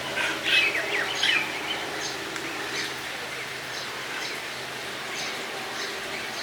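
Small birds chirping: many short high calls, loudest in two quick clusters in the first second and a half, then scattered chirps.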